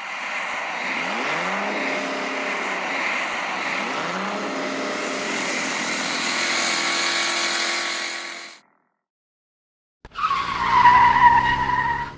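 Car engine sound effect: a car accelerating away with tyre noise and the engine revving up twice, cutting off after about eight seconds. After a short gap a second burst comes near the end: a loud high squeal, falling slightly in pitch, over engine rumble, like tyres screeching.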